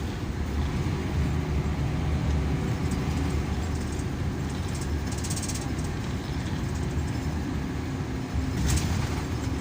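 Scania K340EB coach's engine and drivetrain running, heard from inside the passenger cabin as a steady low rumble with a faint hum. A short rattle comes about halfway through, and a brief clatter comes near the end.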